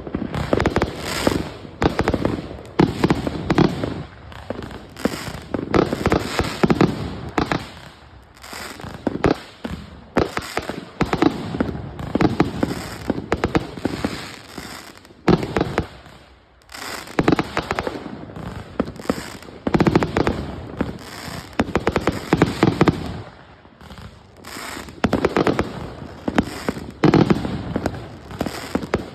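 Consumer fireworks going off in rapid succession: dense volleys of bangs and crackling pops that come in waves, easing off briefly several times before building again.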